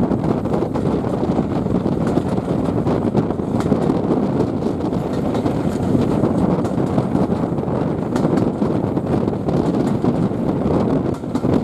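Steady rumble of a steam-hauled passenger train's carriage running along the track, heard from on board, with faint clicks and wind noise on the microphone.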